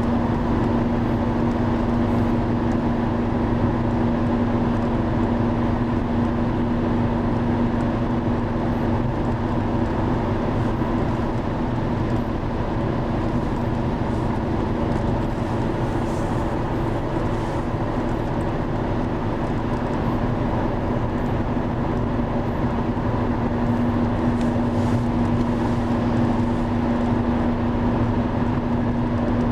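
Steady rushing of the flooding Driva river, under a constant-pitched engine drone.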